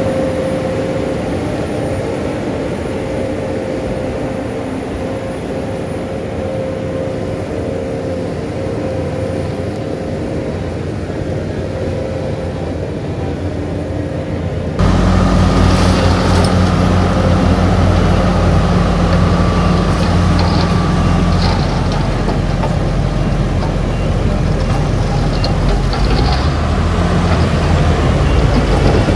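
Heavy diesel earthmoving machinery engines running steadily. About halfway through, the sound cuts abruptly to a louder, closer engine with a deeper rumble.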